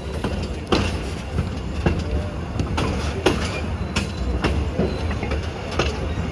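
Railroad car wheels rolling over the track with a steady low rumble and irregular sharp clacks over rail joints. A faint thin wheel squeal comes in about four seconds in.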